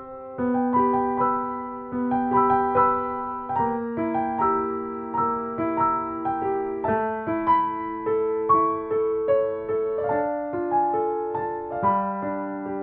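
Soft background piano music: gentle, slow chords with notes struck and left to ring.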